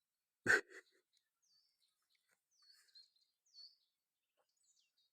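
A terrier's short, sharp snort, with a smaller one right after, about half a second in, from a dog digging at a mole burrow. A small bird then calls three times with brief falling chirps.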